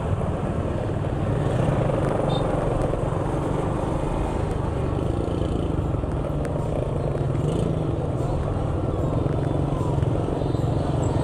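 A vehicle engine running steadily, with road noise.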